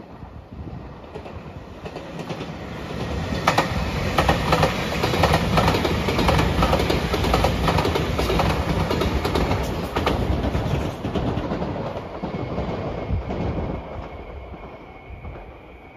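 JR Shikoku 8600 series electric limited express train passing at speed, its wheels clicking over the rail joints. The sound builds over the first few seconds, is loudest through the middle, then fades as the train moves away, with a faint steady high tone lingering near the end.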